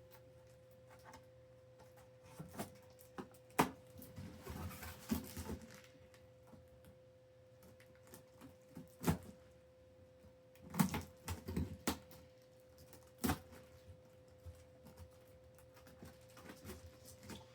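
Cardboard shipping box and its packaging being handled and opened: scattered sharp knocks and scrapes with bursts of rustling, over a faint steady hum.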